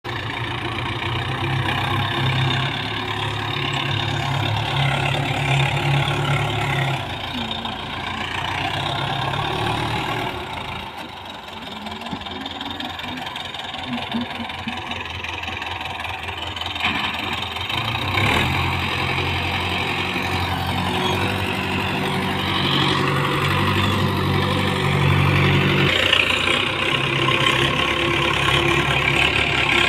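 Tractor diesel engine running steadily near idle, its low engine note dropping back for several seconds in the middle and then returning.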